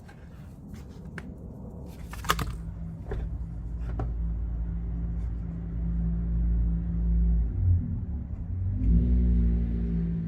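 A few sharp clicks and a knock, then a steady low mechanical hum, like a motor or engine running, that grows louder and shifts up in pitch about nine seconds in.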